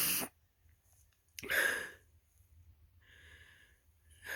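A person's sharp sniffs and breaths, three short noisy ones with a fainter breath between them, close to the microphone.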